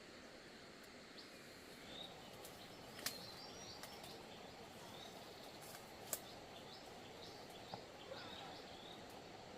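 Faint small-bird chirps over a quiet, steady hiss, with three sharp clicks or snaps about three, six and eight seconds in.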